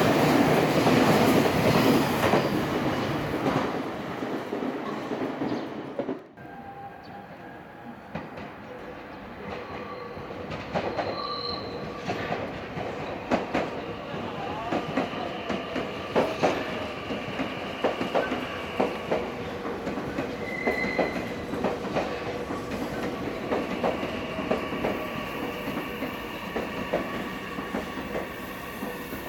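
Electric commuter train rushing past close by at speed, loud for the first few seconds. It drops off suddenly, and then a train rolls along more quietly, its wheels clicking over rail joints under a steady thin squeal.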